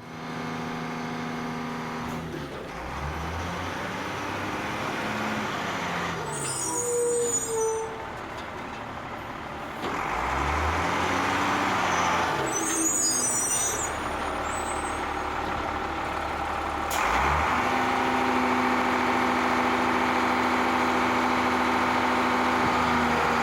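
Heavy truck engine running under load, its note rising and falling several times as it revs. Two short hisses of compressed air from the air brakes come about six and twelve seconds in.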